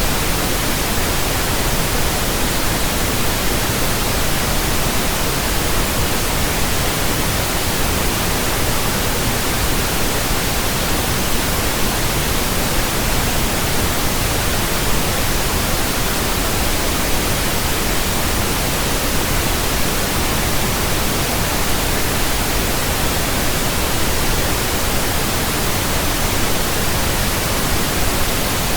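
Steady pink noise from a signal generator, an even hiss with no breaks: a burn-in test signal for speakers and headphones.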